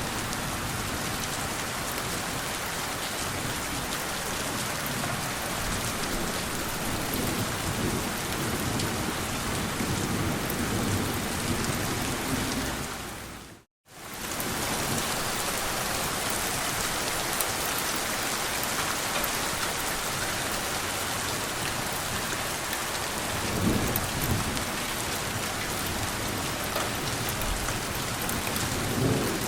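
Steady heavy rain with low rumbles of thunder, one about two-thirds of the way in and another near the end. About halfway through, the sound fades briefly to silence and comes straight back.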